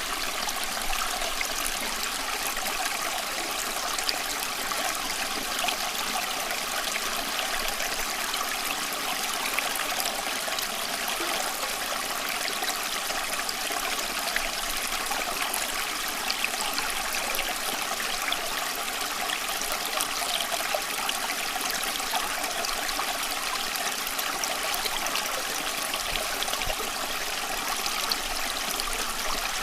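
Running water flowing steadily, a continuous trickling, splashing rush without pauses or changes.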